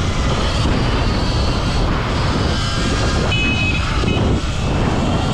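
Heavy wind rush buffeting the microphone while riding along on the bike, with a few faint short tones around the middle.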